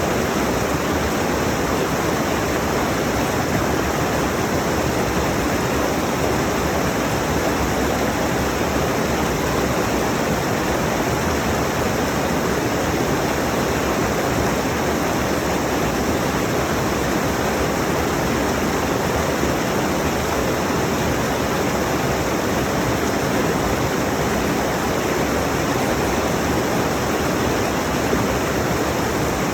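Rushing mountain stream: water running steadily over rocks, an even, unbroken rush of noise.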